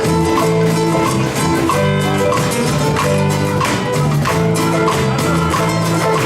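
A band playing a song live: an instrumental passage of held notes over a steady beat.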